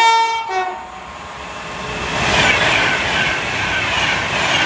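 Class 390 Pendolino electric train: its horn sounds through the first second, then the rush of wheels on rail and air builds as the train passes at speed and stays loud.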